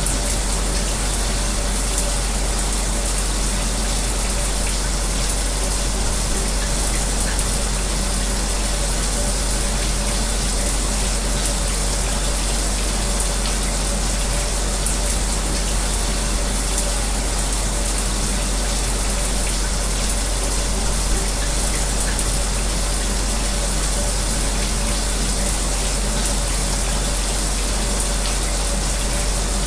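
Shower running: a steady, unbroken hiss of spray falling. It is mixed with the even hum of an electric fan.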